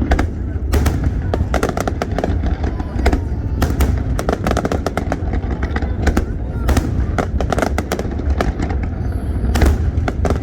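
Fireworks display: a dense run of sharp bangs and crackling bursts, often several a second, over a continuous deep rumble.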